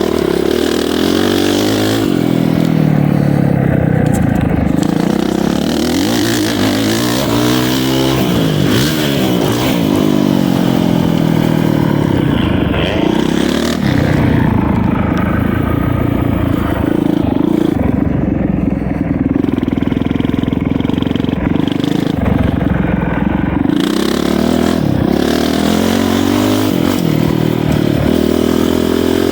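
Dirt bike engine being ridden hard around a motocross track: the pitch rises and falls over and over as the throttle is opened and rolled off through the jumps and turns, with steady wind noise over it.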